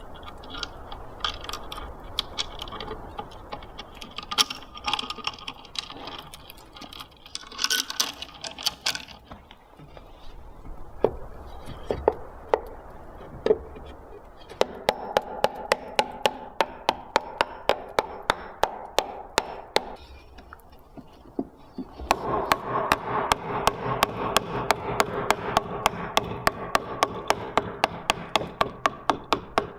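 Irregular knocks and handling noises, then from about halfway through a steady run of sharp, even taps on wood, about three a second.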